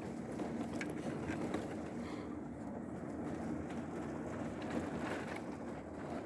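Car engine running and road noise heard from inside the moving car's cabin, a steady hum with occasional small knocks and rattles.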